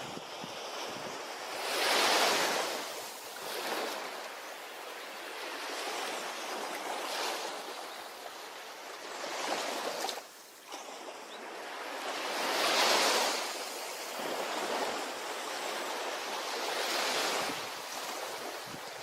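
Ocean surf on a beach, waves breaking and washing in, the sound swelling and fading every few seconds. The two biggest surges come about two seconds in and about two-thirds of the way through.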